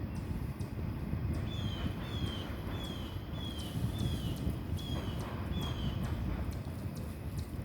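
Low rumble of a distant train passing beyond the trees, with a series of short, high notes that fall in pitch, repeated about every half second to second, and light regular clicks.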